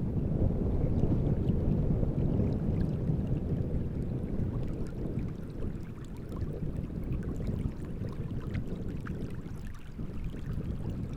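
Strong night wind gusting over a large reservoir and buffeting the microphones in a low rumble that eases toward the end, with small waves lapping and splashing in faint ticks.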